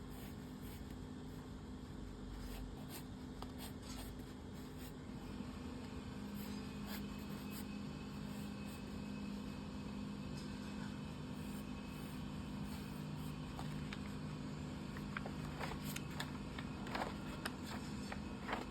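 Faint scratching of drawing strokes with short light taps, over a steady low hum. The taps come more often in the last few seconds.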